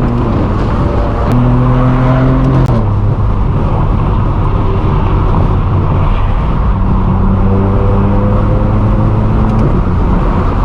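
Straight-piped BMW M4 F82's twin-turbo inline-six (S55) exhaust at steady road cruising. Its pitch steps up briefly about a second in, drops just under three seconds in, then holds level.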